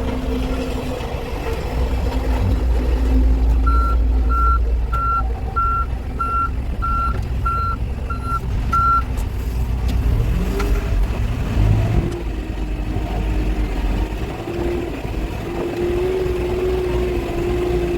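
Backhoe loader's diesel engine running, its reversing alarm beeping about nine times over five seconds as it backs up. About ten seconds in, the engine revs up and holds a higher pitch under load.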